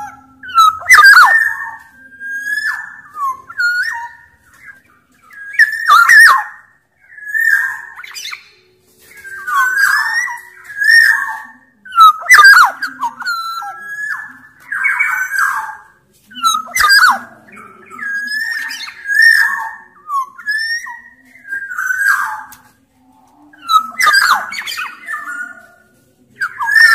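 Black-naped oriole (Sumbawa kepodang) singing actively: short, fluted whistled phrases mixed with harsh, rasping notes, repeated every second or two.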